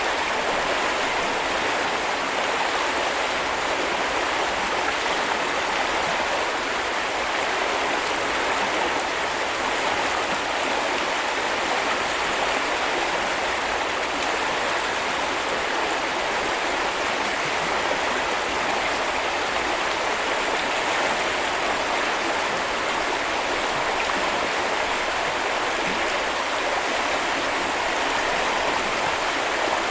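Small river or brook flowing and babbling steadily over stones, a constant rushing wash of water.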